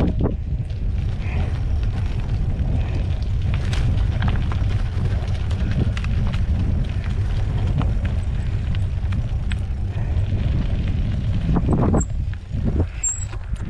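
Wind rumbling on the microphone of a moving mountain bike, with scattered clicks and rattles from the bike. The rumble eases and turns uneven near the end.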